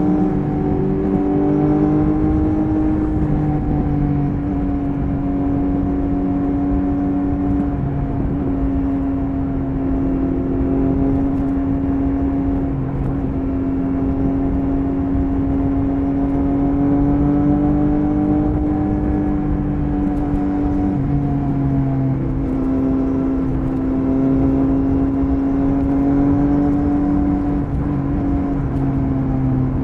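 Triumph Speed Triple 1050 RS's inline three-cylinder engine running steadily at highway cruising speed, heard from on the bike over constant wind and road noise. The engine note dips and rises only slightly with small throttle changes.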